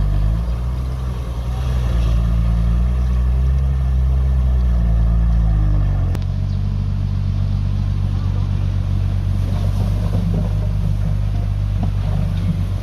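Heavy diesel engine of earthmoving machinery under work. It revs up about two seconds in, holds the higher revs, then drops back to a steady lower run around six seconds in, with a single sharp click as it drops.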